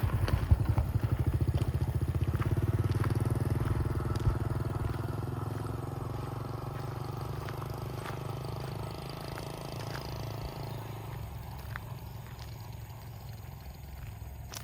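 A motor vehicle's engine running with a low, even throb, fading steadily as it moves away.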